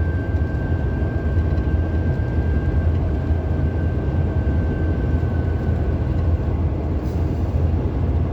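Road and engine noise inside the cabin of a moving police car: a steady low rumble, with a faint high whine that fades out about two-thirds of the way through.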